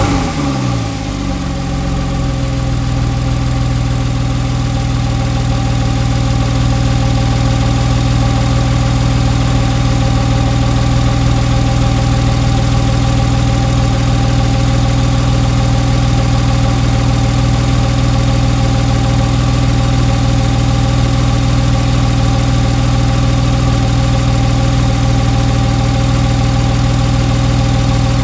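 Porsche 911 Carrera's flat-six engine with sports exhaust, just started: the revs drop from the start-up flare in the first second or two, then it idles steadily.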